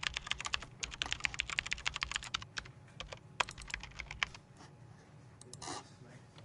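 Fast typing on a computer keyboard: a quick, dense run of key clicks that thins out and stops about four seconds in, over a low steady background hum.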